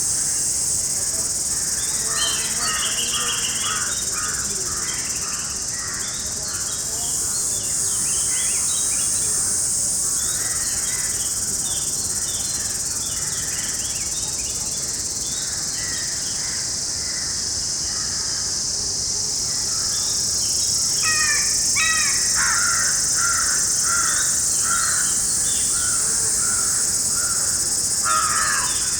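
Wild birds calling over a steady, high-pitched insect chorus. Short repeated call notes come and go throughout, with a run of evenly spaced calls late on.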